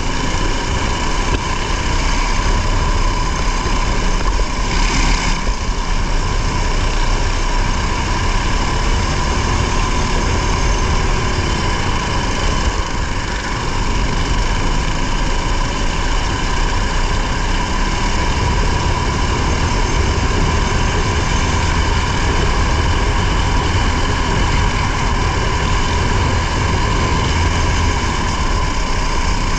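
Rally car engine and road noise heard from inside the cabin, running steadily with a constant low rumble.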